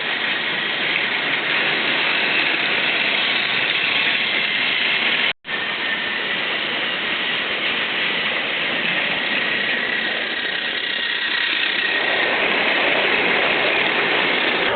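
Battery-powered Tomy Plarail toy train running on its plastic track: a steady whirring with a faint high whine, cutting out for a moment about five seconds in.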